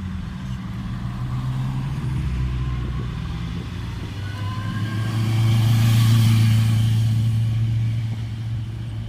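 Car engine running steadily, growing louder to a peak about six seconds in and then easing off, as a car draws near and passes.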